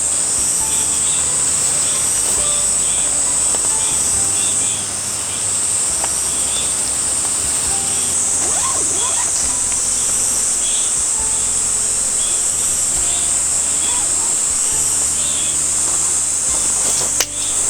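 Cicadas in a forest singing in a steady, high-pitched drone, over soft background music. A sharp click sounds near the end.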